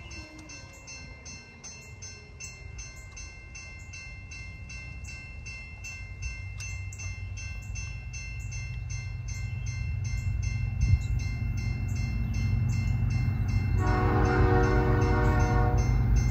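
An approaching train's diesel locomotive rumbles in the distance and grows steadily louder, and its air horn sounds one chord-like blast of about two seconds near the end. A grade-crossing bell keeps ringing with even, steady strikes throughout.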